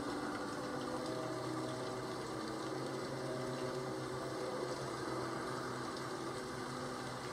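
Steady rain, an even hiss with a faint low hum underneath.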